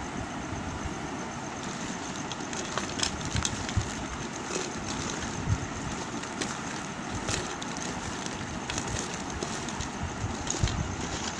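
Bars of soap being handled and worked for ASMR: scattered light crackles and taps over a steady hiss.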